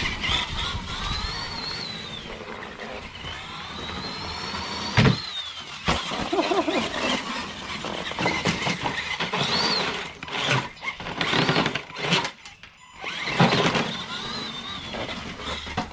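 Axial SMT10 Grave Digger RC monster truck's electric motor and drivetrain whining up and down with the throttle as it drives over wet gravel, the tyres crunching through the stones. A sharp knock about five seconds in.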